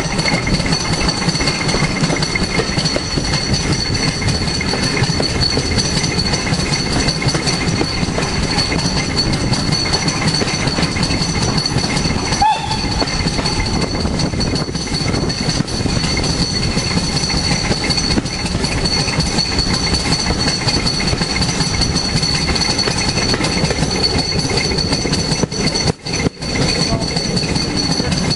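Carriage of a steam-hauled heritage train running along, heard from inside the coach: a steady rumble of the bogies and the clickety-clack of wheels over the rail joints. The noise dips briefly near the end.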